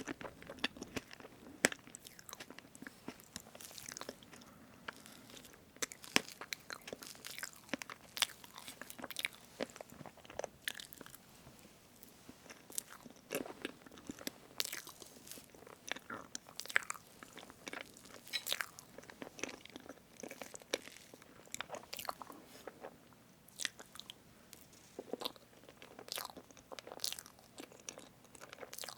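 Close-miked eating of strawberry whipped-cream cake: a utensil cutting through the fresh cream and chewing, heard as many irregular sticky, crackly clicks.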